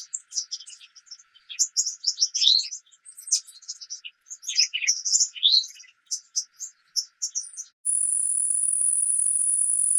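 A songbird singing rapid, varied chirping phrases. About eight seconds in the song cuts off and a loud, steady, very high-pitched buzz starts abruptly.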